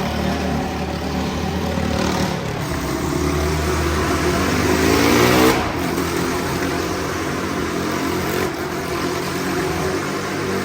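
Motorcycle engines running, with one rev rising to a peak about five and a half seconds in and then dropping off sharply.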